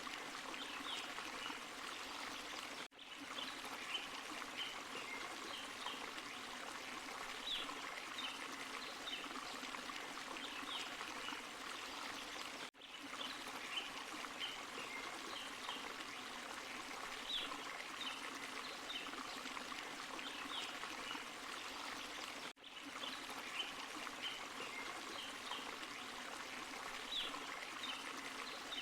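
Small forest stream and waterfall running steadily. The sound drops out briefly three times, about every ten seconds, where the short recording loops.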